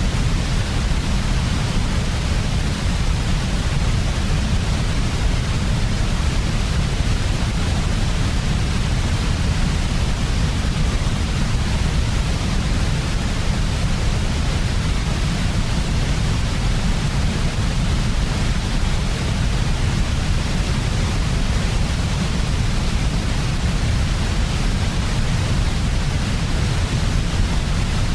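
Steady electronic white noise, constant and unbroken: a deep rumble under an even hiss that does not change.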